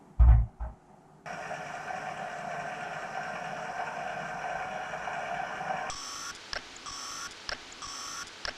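A low thump, then a small electric motor running with a steady whine. About six seconds in, a series of short electronic beeps starts, repeating a little more than once a second.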